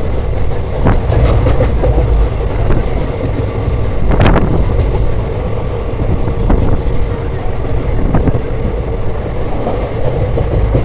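Passenger train running along the track: a steady rumble with occasional sharp knocks, the loudest about four seconds in.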